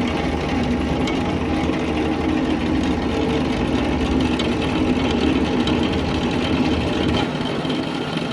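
An engine running steadily, with its deepest rumble dropping away about seven seconds in.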